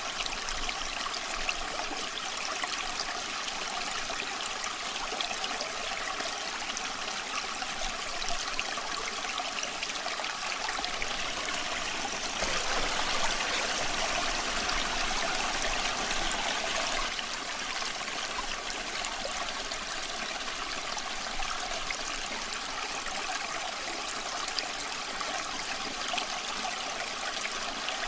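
Creek water babbling steadily, with faint scattered crackles from a campfire. The water swells louder for a few seconds about halfway through.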